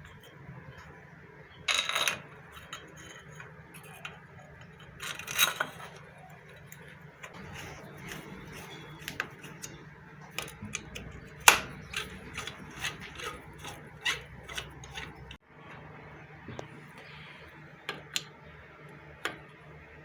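Small metal pump parts and screws clinking and knocking as they are handled: scattered light clicks, with two louder clattering knocks about two and five seconds in, over a faint steady low hum.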